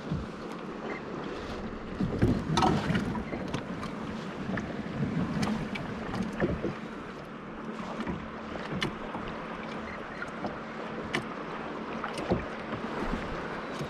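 Kayak being paddled on the sea: steady water wash and paddle splashes, with scattered short clicks and knocks, louder about two and five seconds in.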